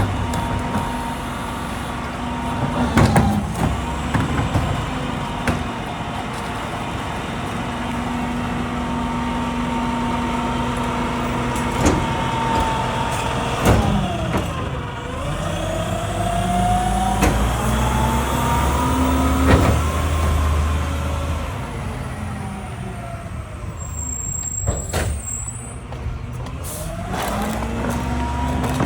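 Mack LEU garbage truck's diesel engine running, its pitch sagging and then climbing again twice, as when it revs up under load. Several sharp knocks and clanks are heard along the way.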